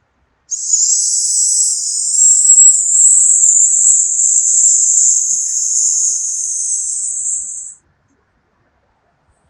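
The Taoist lung healing sound: one long, steady hissing "sssss" exhaled through the teeth, lasting about seven seconds and cutting off abruptly.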